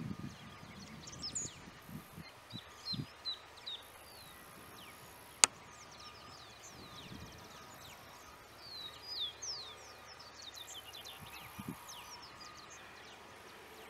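Small birds chirping, many short, high whistled notes sliding up and down. A single sharp click about five and a half seconds in, and a few low thumps.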